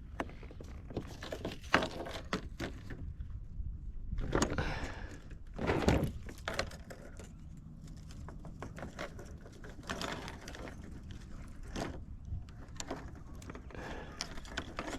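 Scattered knocks, clicks and rustles of handling on a kayak, with two louder rustling swells a few seconds in.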